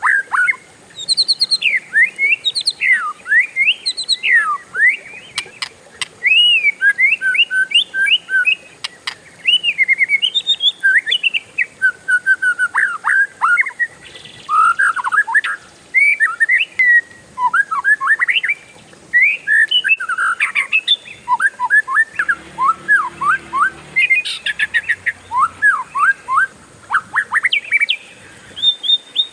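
Oriental magpie-robin (kacer) singing a long, varied rolling song: quick whistled notes sliding up and down, strung together almost without a break, with only a few short pauses.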